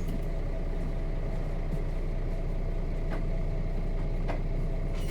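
Nissan Diesel KC-RM211GSN bus's FE6 inline-six diesel engine running steadily, heard from inside the passenger cabin, with a few faint clicks.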